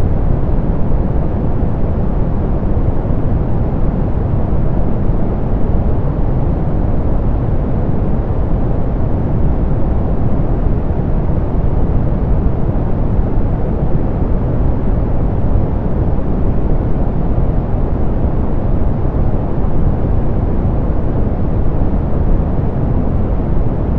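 Steady soft pink noise: an even, unchanging hiss weighted toward the low end, dark and rumbly rather than bright, with no events.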